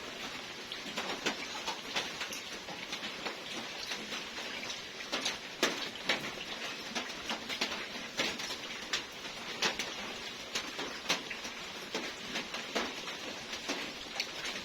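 Rain dripping and pattering on a surface: many irregular sharp drops over a steady light hiss.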